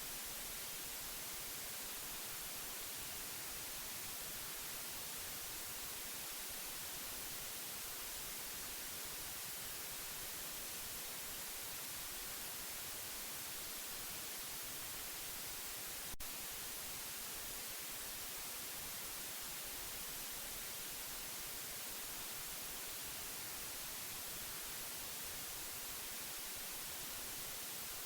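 Steady white noise, an even hiss heaviest in the treble, played as a sleep aid for a baby. A single faint click sounds about sixteen seconds in.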